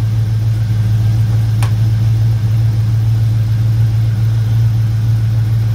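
A 5.7-litre LT1 V8 idling steadily while its cooling system is bled of air after a radiator replacement. A single sharp click comes about a second and a half in.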